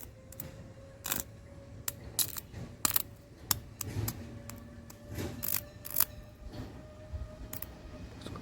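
Irregular sharp clicks and light taps of small tools and parts being handled during soldering work, about a dozen spread unevenly, over a faint steady hum.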